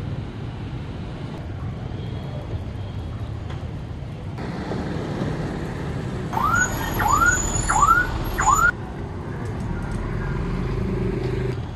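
Steady low rumble of a train on the move. A little past the middle, four short rising electronic whoops, like an alarm, come in about two seconds and are the loudest thing heard.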